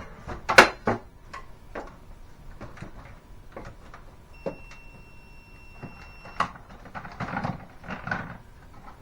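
Irregular clicks and knocks of parts and tools being handled, loudest in the first second. A steady high tone sounds for about two seconds midway.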